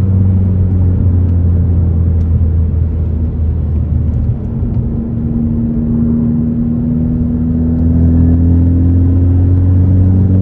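2018 Ford Focus ST's turbocharged 2.0-litre four-cylinder running through an AWE axle-back exhaust, a steady deep drone. After a brief dip in loudness about four seconds in, the engine pitch climbs slowly and steadily, a gentle pull rather than a hard run.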